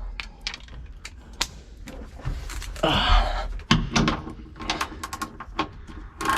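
Torque wrench ratcheting in short runs of clicks while a suspension bolt is tightened, with a few metal knocks from the tools.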